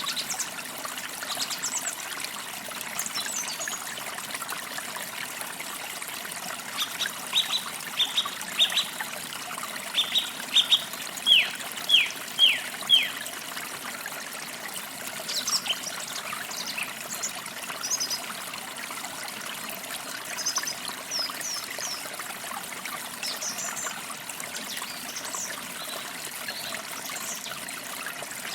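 A small stream trickling steadily, with songbirds chirping over it. A run of sharp, falling chirps comes a third of the way in, and scattered high chirps follow later.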